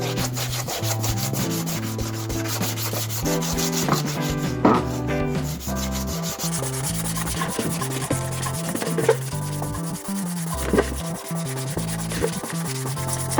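Hand sanding with rapid back-and-forth strokes, over steady background music.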